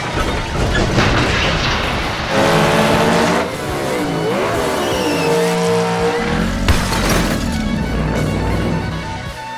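Added sound effects of a revving monster-truck engine over background music, the engine pitch rising and falling in the middle.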